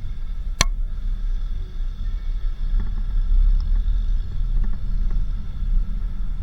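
Vehicle on the move: a steady low rumble of engine and road noise, with one sharp click a little over half a second in and a few faint knocks after it.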